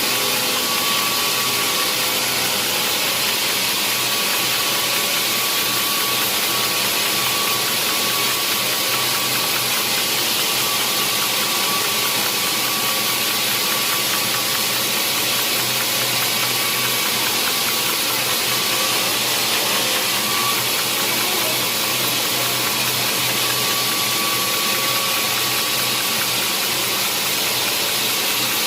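Sawmill saw and machinery running steadily: a loud, even noise with a low hum underneath.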